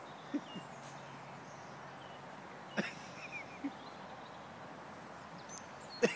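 Quiet outdoor background with a few faint bird chirps and several short, sharp knocks or clicks.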